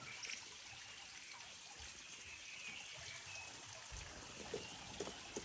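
Faint trickle of running water, with a few soft clicks near the end.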